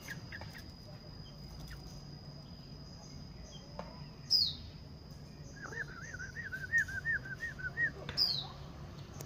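Bulbuls calling in an aviary: a run of about ten quick rising-and-falling notes, framed by two sharp, high descending chirps, one before the run and one at its end. A steady high insect trill runs behind.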